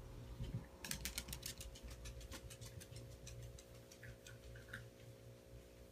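A fast run of sharp clicks about a second in, thinning to a few scattered clicks, over a steady low hum.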